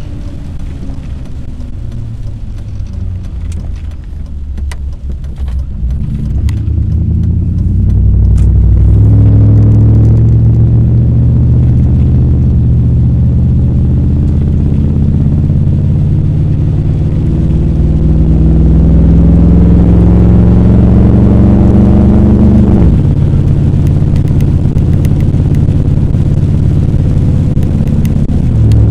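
Car engine and road rumble while driving. The engine note climbs steadily from about a quarter of the way in, then drops suddenly about three quarters through, as at a gear change.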